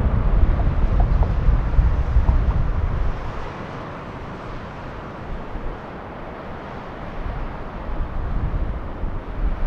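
Jet airliner engines rumbling, dropping away about three seconds in to a fainter steady roar, with wind buffeting the microphone.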